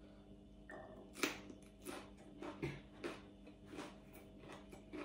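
A person chewing a mouthful of food, with soft wet chewing clicks about every two-thirds of a second over a faint steady room hum.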